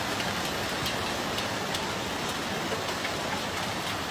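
Heavy rain pouring down: a steady, dense hiss with a faint patter of drops.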